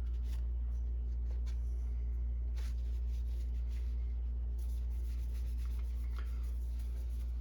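Faint rubbing, scratching and light clicks as a refilled inkjet cartridge is handled, over a steady low hum.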